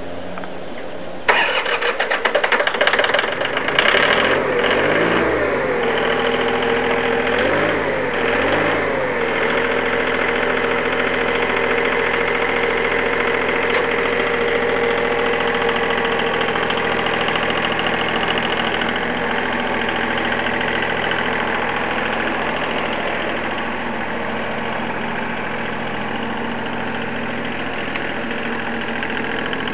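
John Deere engine swapped into a Dodge Colt starting up about a second in and running unevenly for a few seconds. It is then revved up and down three times and settles into a steady idle.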